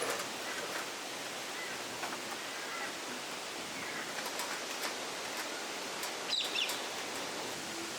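Birds chirping and calling over a steady hiss of outdoor ambience. A sharper, higher call that falls in pitch stands out late on.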